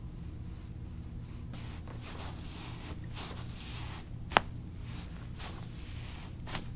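A chiropractic neck adjustment: soft rustling of hands and clothing as the patient's head is positioned, then one sharp crack as the neck joint cavitates, and a fainter click near the end.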